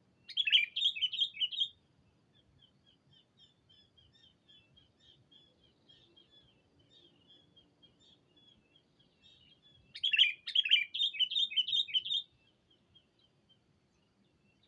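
A sooty-headed bulbul (kutilang) used as a decoy sings two loud bursts of quick rising-and-falling whistled notes, about ten seconds apart, calling out to rival bulbuls. Fainter rapid chattering notes run between the bursts.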